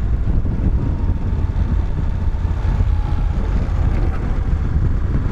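Moto Guzzi motorcycle riding at a steady speed: a low, even engine drone mixed with wind rushing over the microphone.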